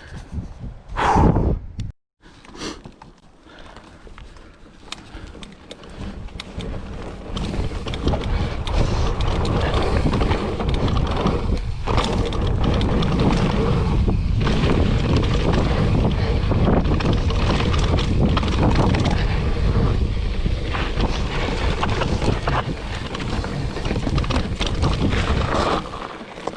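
Mountain bike riding down a dirt trail: wind noise on the microphone and tyre rumble, with many short clicks and rattles. The sound grows louder and steadier about eight seconds in.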